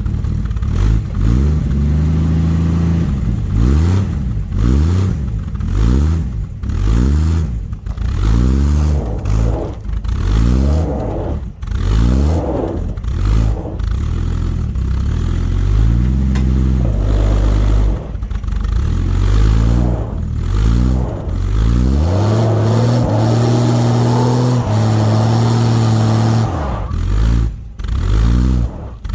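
Dodge D100 pickup's slant-six engine revved up and let back down over and over, each rev rising and falling within a second or two, then held at a steady higher speed for several seconds near the end, as the truck tries to pull out of ice frozen around its tyres.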